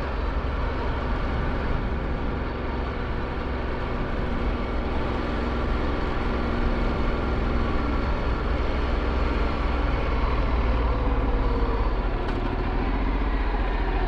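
Ducati Multistrada 1260S's V-twin engine running steadily at cruising speed, with road and wind noise.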